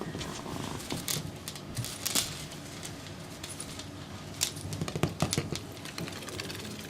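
Scattered light clicks and taps, irregular and a second or so apart, from a domestic duck's bill pecking at a treat-dispensing toy and picking up mealworms.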